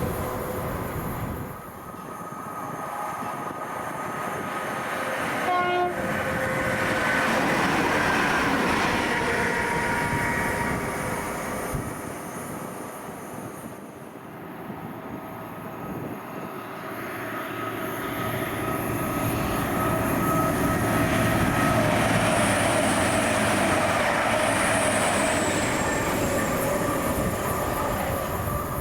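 Railway trains passing at speed, with a brief horn sounding about six seconds in. The rumble of the train swells, eases off in the middle, then builds again into a second long passing roar.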